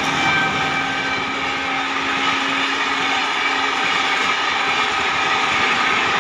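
The coaches of an Indian Railways express train rushing past at speed: a steady roar of wheels on rail and air.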